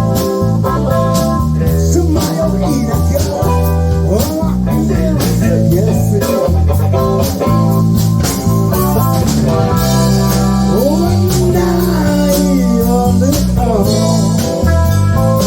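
A live band playing a blues-rock song: a guitar carries a melody with bent notes over bass and drums.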